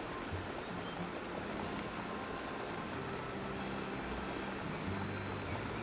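River water rushing steadily, an even noise of flowing current.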